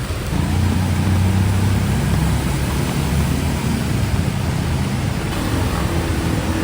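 Heavy rain falling steadily, with a motor vehicle's engine running close by, its low rumble growing louder about half a second in.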